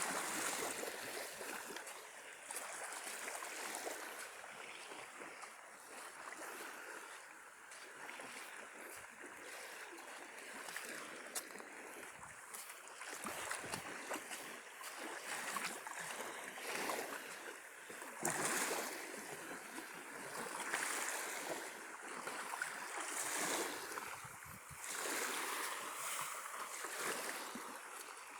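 Small waves of the Sea of Azov washing up on the beach, the hiss of the surf swelling and fading every few seconds.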